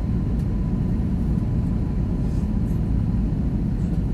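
Steady low rumble of cabin noise aboard an Airbus A321, with a faint steady whine above it.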